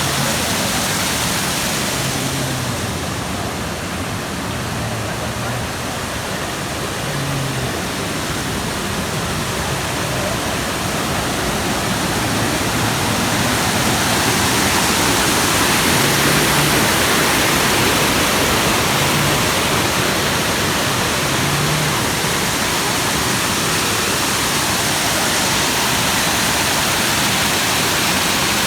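Waterfall: a loud, steady rush of falling water, growing a little louder partway through.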